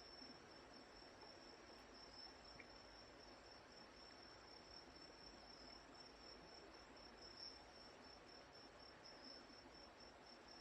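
Faint night insects trilling: a steady, high-pitched pulsing trill over a low hiss.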